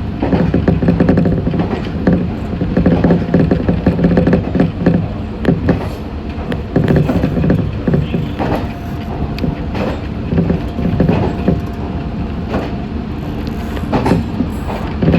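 Meitetsu 6500 series electric train running, heard from inside at the front: a steady low rumble with irregular clacks of the wheels over rail joints. A faint steady tone joins the rumble about halfway through.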